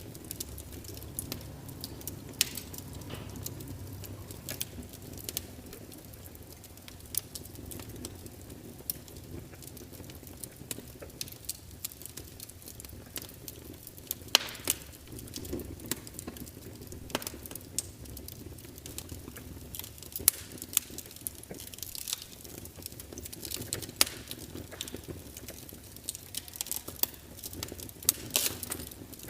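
Burning logs crackling and popping irregularly, with a few louder snaps, over a low steady rumble of the fire.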